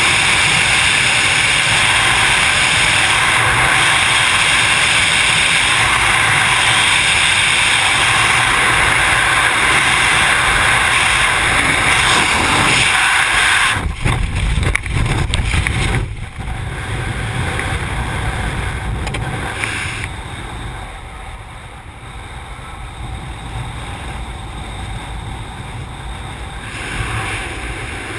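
Wind rushing over the camera microphone during a wingsuit flight. About halfway through the rush breaks off into a few seconds of rumbling and flapping, then settles into a much quieter, lower wind.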